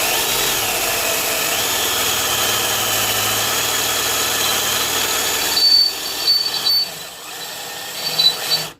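Electric drill running on high speed, boring a hole through metal; the motor's whine wavers in pitch as the bit bites. After about five and a half seconds it runs quieter, with short high squeaks from the bit, then cuts off at the end.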